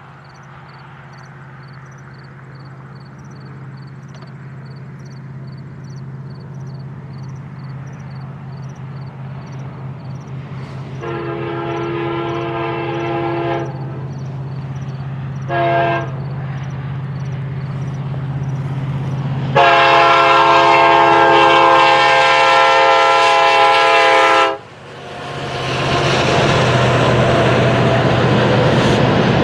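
A diesel freight locomotive approaches with its engine growing steadily louder and sounds its multi-note horn: a long blast, a short one, then a longer one. The train then passes close by with a loud rumbling rush. Before the horn, a high ding repeats about twice a second, like a grade-crossing bell.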